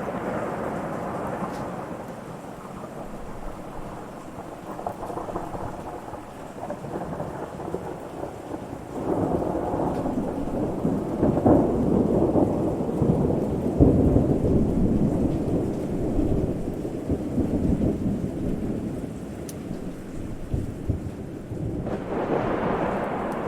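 Thunder rumbling over steady rain. A long roll of thunder builds about nine seconds in, is loudest a few seconds later, then slowly dies away.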